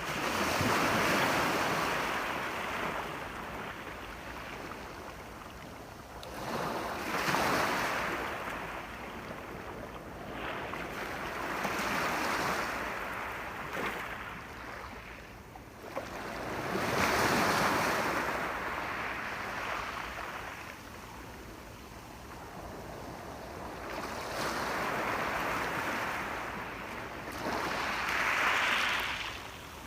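Ocean waves breaking on the shore, the surf swelling and falling away again every few seconds, six surges in all.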